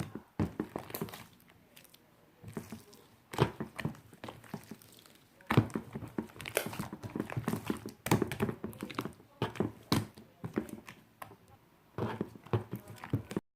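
Clear, sky-blue slime being squished and pressed by hand: irregular runs of sticky pops and clicks, with short quiet pauses between handfuls.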